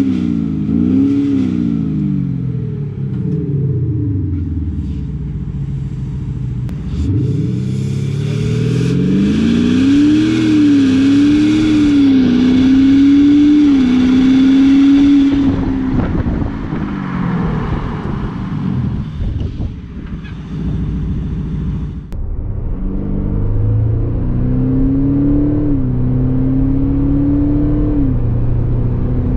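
Audi SQ5 TDI's 3.0 V6 diesel with its exhaust sound actuator in dynamic mode, sound set high: the engine is revved twice, then the car accelerates hard, the pitch climbing and dropping at each upshift before easing off. In the last few seconds it is heard from inside the cabin, accelerating again with two more upshifts.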